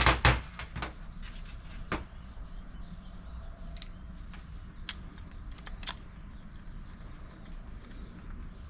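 Small metal parts and hand tools being handled during carburetor work: a sharp clatter at the start, then scattered light clicks and taps.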